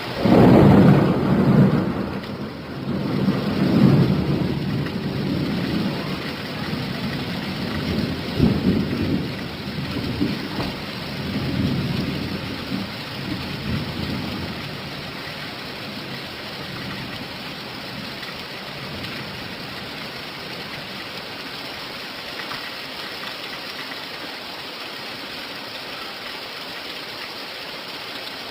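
Steady rain with a long roll of thunder. The thunder breaks in loudly at the start and rumbles on in several swells for about fourteen seconds, then fades and leaves only the even hiss of the rain.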